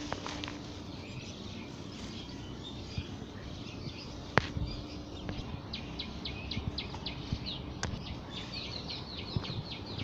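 A bird calling in a quick run of short, high chirps, about four or five a second, starting about halfway through and getting denser near the end, over a steady outdoor background hiss. A few sharp clicks stand out, the loudest about four and eight seconds in.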